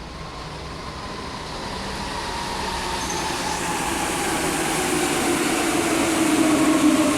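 Alstom NS-16 metro train running, heard from inside the car: rail and running noise grows steadily louder under the whine of the traction motors, whose tones slowly fall in pitch as the train slows.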